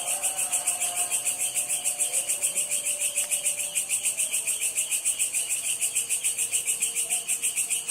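Insects calling in a steady, rapidly pulsing high-pitched chorus, about nine pulses a second, with faint drawn-out lower tones underneath.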